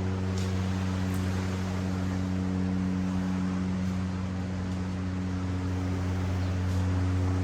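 A steady low mechanical hum with several held tones, over a constant rush of ocean surf.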